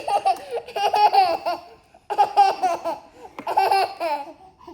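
A baby or toddler laughing in three high-pitched bouts, with short pauses between them.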